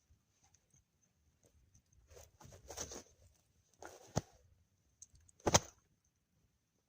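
Scattered rustling with two sharp knocks, the louder one about a second after the first, over a faint steady high whine.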